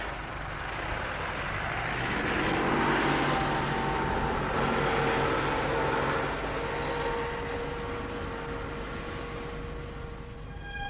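A tractor's diesel engine running as it drives past, growing louder over the first few seconds and then slowly fading away.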